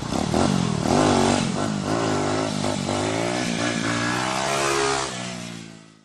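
Motorcycle engine revving, the pitch rising and falling again and again, fading out near the end.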